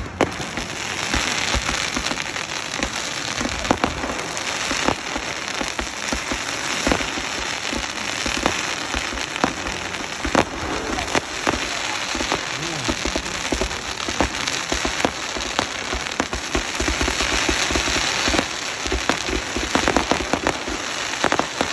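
Fireworks crackling: a dense, unbroken spatter of many small pops, with louder single cracks standing out here and there.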